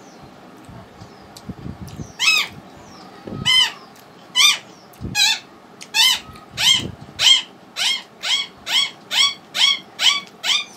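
A bird calling outside: one short, loud call repeated over and over, slow at first and then faster and faster toward the end.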